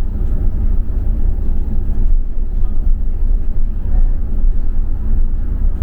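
Double-decker bus in motion, heard from on board: a steady low engine and road rumble.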